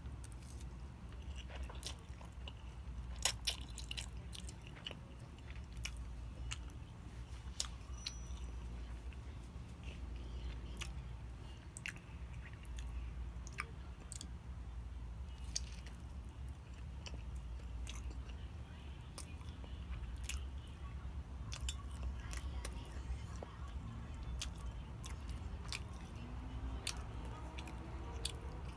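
Close-miked eating sounds: chewing and biting food, with many scattered sharp wet mouth clicks over a steady low hum.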